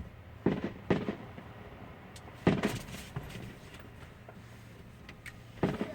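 Fireworks shells bursting, heard muffled from inside a car: two bangs close together about half a second in, the loudest about two and a half seconds in, and another near the end.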